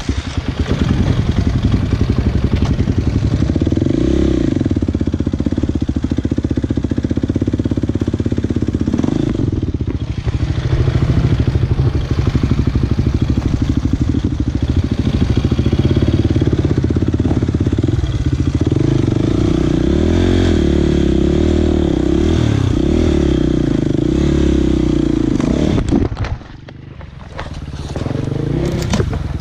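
Motocross dirt bike engine running hard, its pitch rising and falling as the throttle opens and closes. Near the end it drops away for a second or two, then picks up again.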